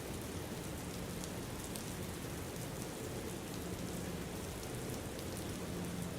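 Steady rain falling, an even hiss with faint scattered drop ticks, used as a sleep ambience track, with a faint low steady hum underneath.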